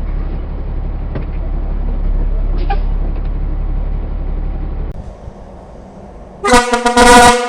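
Steady low vehicle engine rumble for about five seconds, which then drops away, followed near the end by a loud, brief vehicle horn blast.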